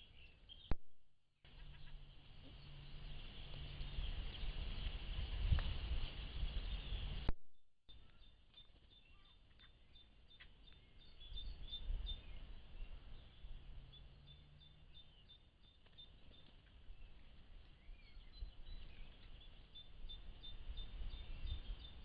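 Wild birds singing and chirping, with many short high chirps through the second half, heard through a trail camera's microphone over a steady hiss. A low rumbling noise fills the first several seconds, and there is a sharp click just under a second in and a brief dropout about seven seconds in, where separate recordings are joined.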